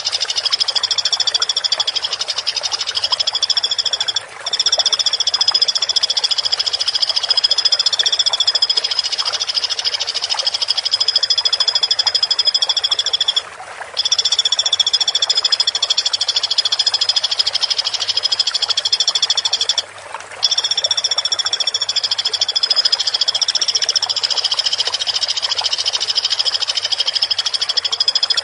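Woodpecker giving a continuous, rapid, high-pitched trilling call, broken by three brief pauses.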